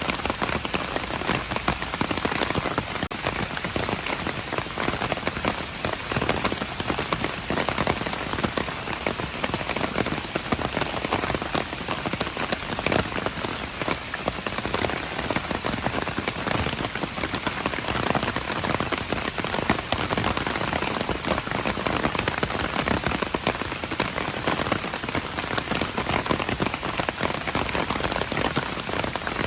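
Steady rain falling on hard surfaces, a dense patter of many small drop impacts with no let-up.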